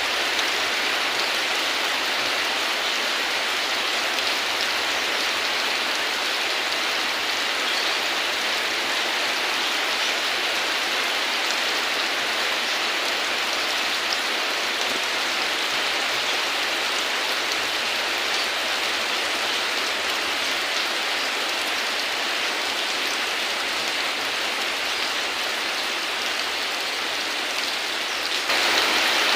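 Rain falling steadily, a dense even patter with no thunder, stepping up slightly in loudness about a second before the end.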